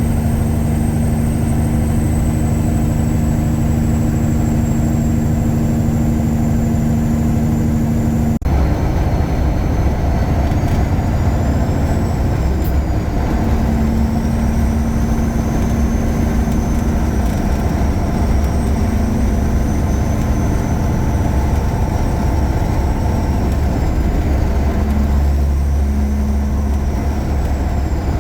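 Tuned Caterpillar 3406E straight-six diesel in a 1999 Freightliner Classic running on the road with a steady heavy engine note. There is a sudden break about eight seconds in, and after it a high whine rises and falls over the engine.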